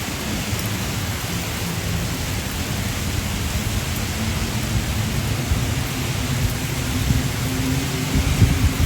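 Typhoon wind and heavy rain: a steady rush of rain noise, with the wind buffeting the microphone in low rumbles that grow stronger near the end.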